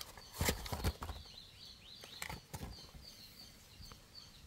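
A few soft knocks and handling noises from working a tyre plug insertion tool in a punctured tyre. Faint high chirps repeat evenly in the background.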